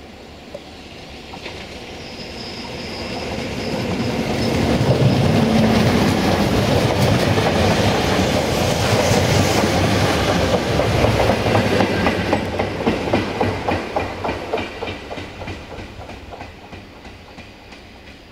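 A VT 614 diesel multiple unit passing on the adjacent track. Its engine noise and wheel rumble swell as it approaches and are loudest in the middle, then give way to a fading clickety-clack of wheels over rail joints as it moves away.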